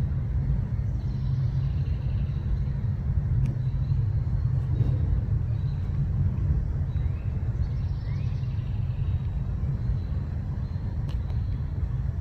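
Steady low outdoor rumble, with faint short high chirps a few times.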